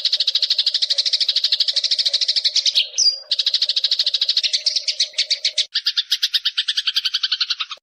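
Eurasian tree sparrow's long rattling chatter: a fast, unbroken run of harsh chirps, many notes a second. A short higher note breaks it about three seconds in, and the rattle shifts to a lower, coarser version near the end before cutting off abruptly.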